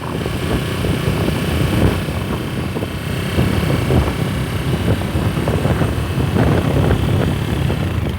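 Steady low rumble of a vehicle travelling along the road, mixed with wind buffeting the microphone.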